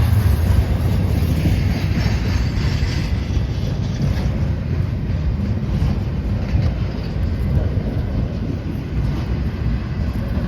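A train running past, a steady heavy rumble that eases slightly toward the end.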